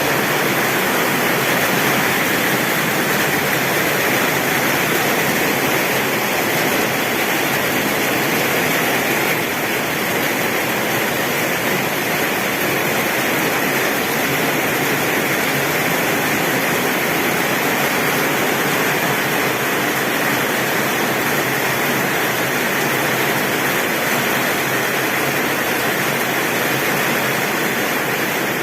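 Torrential rain pouring on a tin roof, a dense, steady hiss with no thunder.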